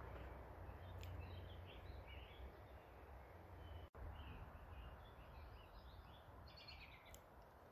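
Small birds chirping faintly, scattered short calls throughout, over a steady low outdoor hiss and rumble. The sound drops out for an instant about halfway through.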